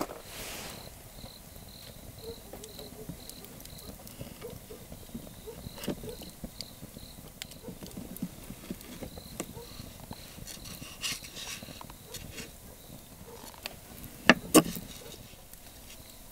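A cricket chirping steadily, about two short high chirps a second, with scattered light clicks and two sharp knocks close together near the end.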